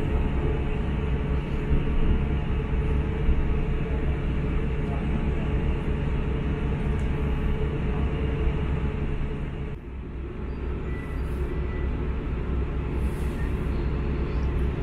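Interior running noise of a British Rail Class 159 diesel multiple unit at about 50 mph: a steady underfloor diesel engine drone with wheel-on-rail rumble. There is a brief dip in level about ten seconds in.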